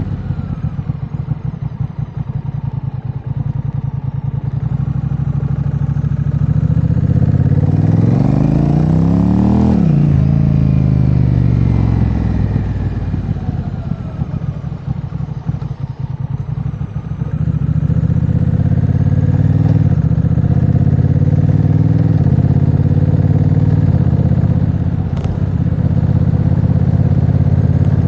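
Honda Rebel 1100's parallel-twin engine through a Vance & Hines aftermarket exhaust while riding. It revs up hard from about seven seconds in and drops off sharply around ten seconds. It eases off in the middle, then runs steadily and louder in the later part.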